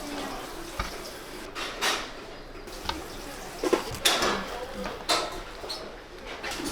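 Kitchen clatter: irregular clinks and knocks of pots, dishes and utensils being handled, with a few short scraping sounds.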